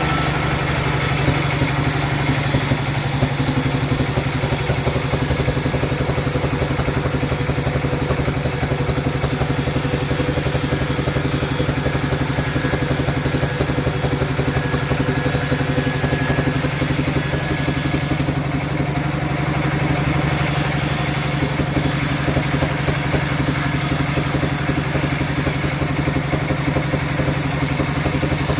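Sawmill machinery running steadily: a loud, even engine-like drone with a fast, fine rattle that does not change.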